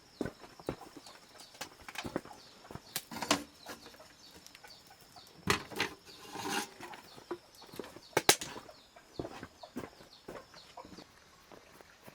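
Irregular knocks and clatter, with a stretch of scraping about six seconds in and a sharp double knock a little after eight seconds, over faint, rapidly repeating high chirps.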